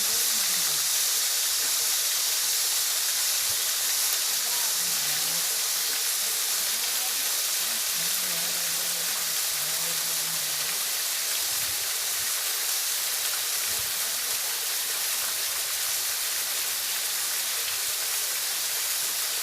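Waterfall rushing in a steady, even hiss, with most of the sound in the high range.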